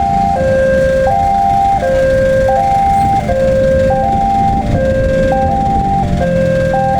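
Railway level-crossing warning alarm: an electronic two-note chime alternating a higher and a lower tone, one high-low pair about every second and a half. Under it is a low rumble that grows near the end.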